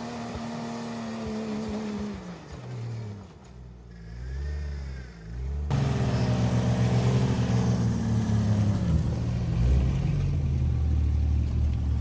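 Jeep engine working on the trail, its revs holding, then falling away and wavering more quietly. About six seconds in the sound cuts abruptly to a louder, steady engine, whose revs drop again near the end.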